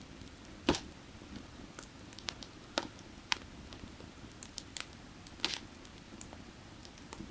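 Burning firewood crackling: irregular sharp pops and snaps of varying size, the loudest about a second in, over the low steady rush of a creek.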